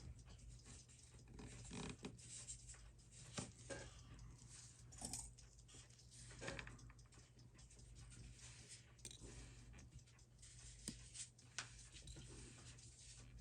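Near silence: a steady low room hum with scattered faint clicks and soft rustles of handling.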